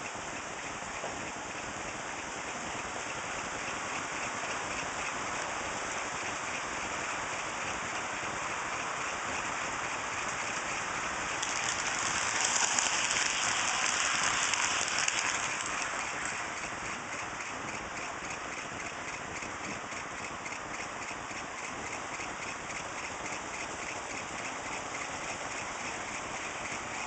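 HO scale model trains running on DC, their motors and wheels on the rails giving a steady hiss that swells for a few seconds in the middle as a train passes close, then settles back.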